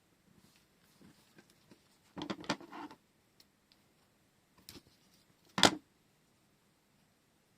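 Rolls of washi tape and their packaging handled on a table: a short bout of rustling and clicking about two seconds in, a light tap, then a single sharp tap as an item is set down.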